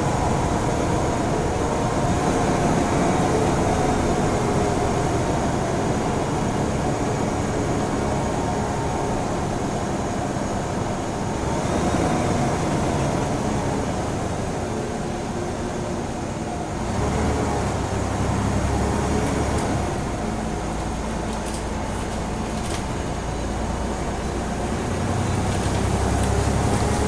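Scania N94UB single-deck bus heard from inside the saloon while under way: engine running with steady road noise. The engine note shifts about halfway through, and a deeper rumble comes in after it.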